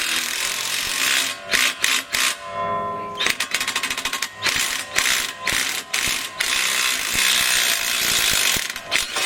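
Metal tools ratcheting, clicking and clattering as a badly worn front wheel bearing hub is worked off its spindle, with many sharp metallic knocks and a run of rapid clicks partway through.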